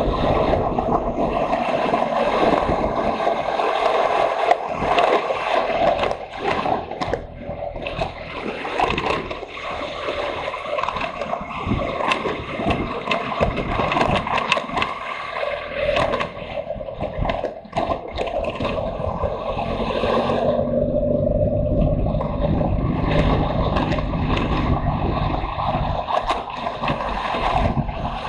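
Motorcycle ridden over a rough off-road track: the engine running with wind on the microphone, broken by frequent short knocks and scrapes.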